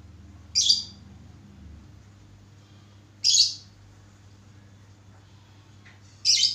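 Lovebird giving three short, shrill, high-pitched calls, about three seconds apart.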